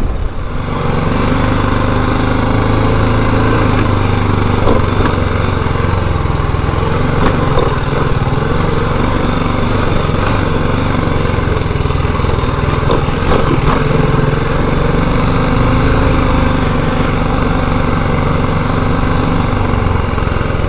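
Single-cylinder adventure motorcycle engine running at a steady speed.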